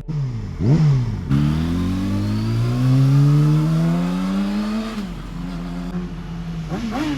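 Sport motorcycle engine revving once, then pulling up in pitch for about four seconds as it accelerates. The pitch drops suddenly at a gear change, the engine runs steadily for a while, and another short rev comes near the end.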